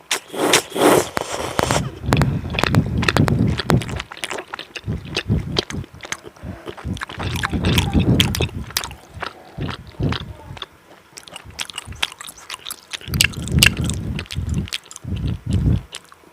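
Close-miked eating, heard very close: a loud noisy bite in the first two seconds, then repeated chewing with many sharp wet mouth clicks.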